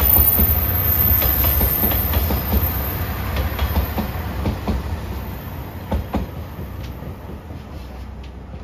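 JR Shikoku 2700-series diesel limited express train passing, wheels clicking over the rail joints, its rumble fading as it moves away.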